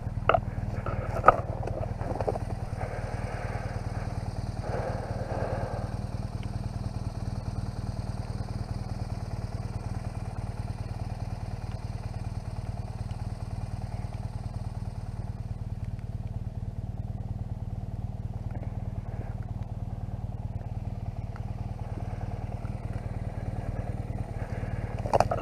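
BMW R1200GS motorcycle's boxer-twin engine running steadily at an even speed, with no revving. A single sharp knock about a second in.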